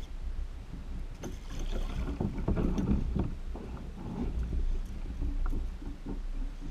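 Water sloshing and lapping against a kayak hull, with irregular small knocks and a steady low wind rumble on the microphone.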